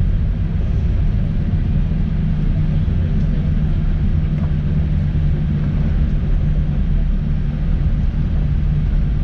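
Steady low rumble of a Boeing 787-8 Dreamliner heard inside the cabin, with a constant low hum underneath.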